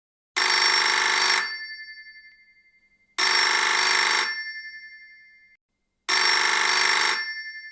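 Telephone ringing three times, each ring about a second long with a fading ring-out, evenly spaced about three seconds apart.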